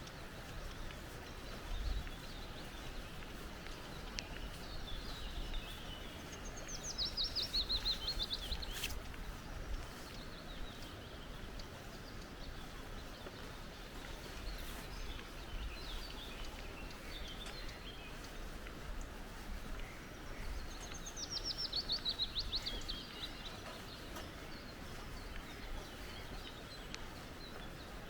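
Steady wash of flowing creek water, with a songbird singing a fast trill that falls in pitch, twice, about 7 and 21 seconds in, and fainter bird calls in between.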